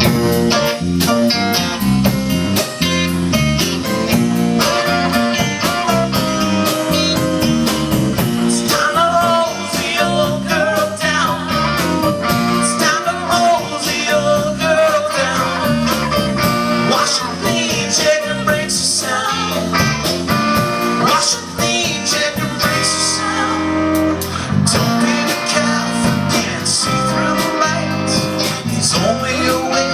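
Live band playing a bluesy rock-and-roll song on guitars with a steady beat, and a melody line running over it from about nine seconds in.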